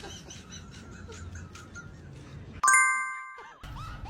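A bright chime sound effect of several ringing tones strikes suddenly about two and a half seconds in and fades away over about a second. Before it there is a low background rumble with faint high squeaks.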